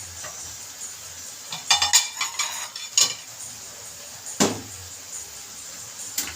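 Dishes and cutlery clattering: a quick run of ringing clinks about a second and a half in, then a single louder knock of a dish or pot being set down, and another near the end.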